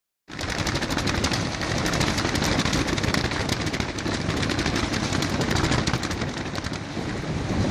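Strong gusting wind buffeting the microphone: a loud, dense rush with a heavy rumble and rapid crackling.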